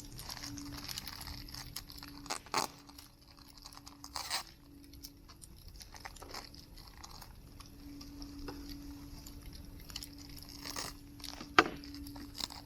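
Wood fire burning in a fire-pit stand, crackling with scattered pops and snaps. The sharpest pop comes near the end.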